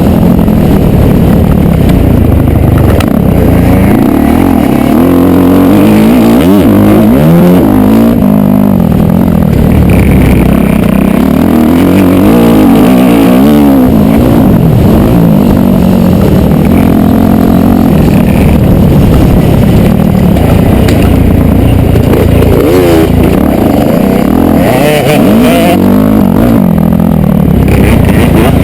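Motocross dirt bike engine running hard at close range, its pitch rising and falling again and again as the rider revs, shifts and backs off around the track.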